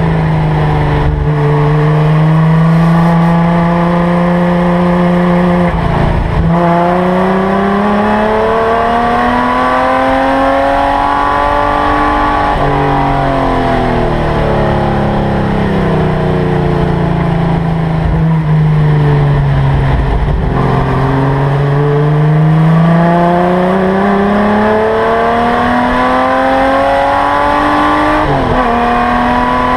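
Holden LC Torana GTR XU1's straight-six race engine heard from inside the cabin, its revs climbing and falling through a lap. Its pitch climbs, drops sharply at a gear change, sinks slowly as the car slows, then climbs again with another sharp drop at a gear change near the end.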